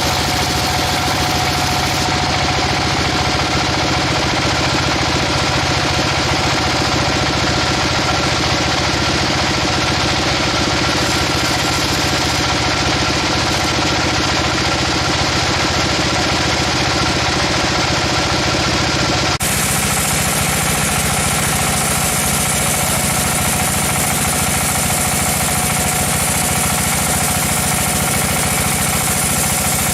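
Sawmill machinery running steadily with an engine-like hum and vibration. The sound changes suddenly about two-thirds of the way through, then runs on steadily.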